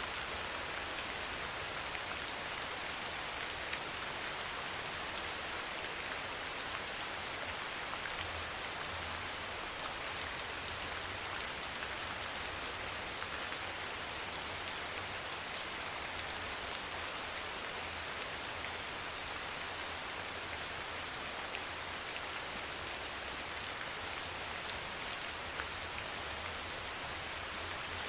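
Steady rain falling, an even hiss of drops with scattered faint individual drop ticks and a soft low rumble underneath.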